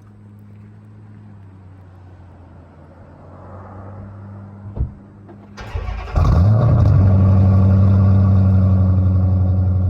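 Dodge Charger R/T's 5.7 Hemi V8, exhausting through Flowmaster Super 10 mufflers with the mid muffler and resonators deleted, cold-started: after a low steady hum and a single knock, the starter cranks and the engine catches about six seconds in. It flares up in revs, then settles into a loud, steady fast idle.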